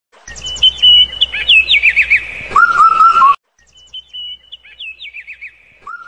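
A bird sings a whistled phrase: a high held note with quick trills, a run of dropping notes, then a lower held whistle. The phrase cuts off abruptly and then repeats in the same pattern, more quietly.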